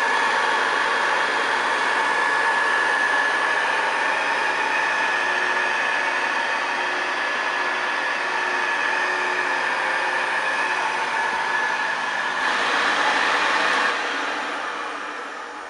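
1962 Hoover Senior 652A upright vacuum cleaner running steadily with a high motor whine. Near the end it grows briefly louder, then is switched off and its motor winds down.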